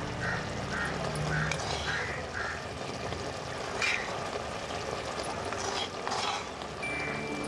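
Chicken pieces sizzling in oil in a brass pot over a wood fire: a steady frying hiss with a few faint ticks.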